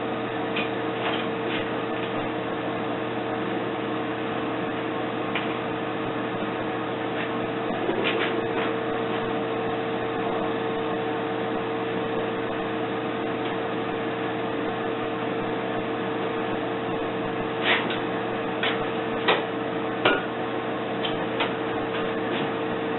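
Steady machine hum holding one constant tone, with a few sharp clicks and knocks scattered through it, most of them near the end.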